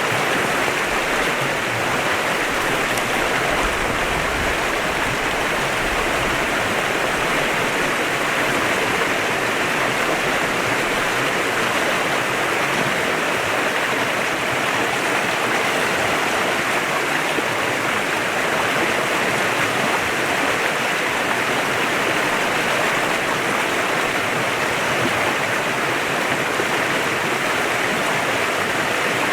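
Clear river water flowing in a steady, even rush.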